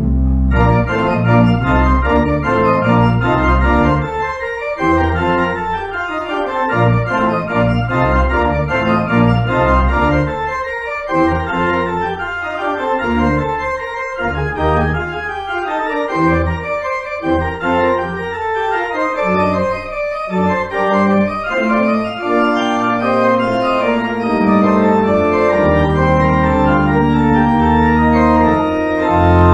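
Organ playing a sustained chordal piece with a held bass line, the chords changing every second or so.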